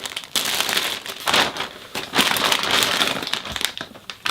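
Plastic packaging being handled and pulled open, crinkling and crackling irregularly throughout.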